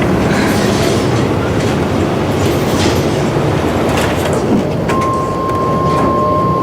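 Continuous rattling rumble with scattered clicks, and a steady high beep that starts about five seconds in and is held.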